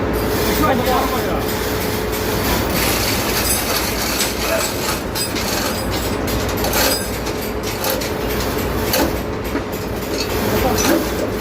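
Steady machinery noise with frequent metallic clanks and rattles from heavy metal parts being worked, and a faint steady hum.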